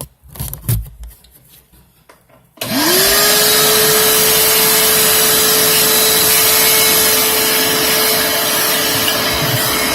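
A shop vac switched on about two and a half seconds in: its motor whines up to speed within a fraction of a second and then runs loud and steady. Light handling knocks come before it.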